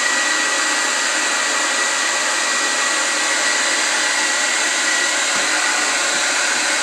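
Hair dryer blowing steadily on high, a constant rushing of air with a steady high whine from its motor, heating vinyl floor tile adhesive.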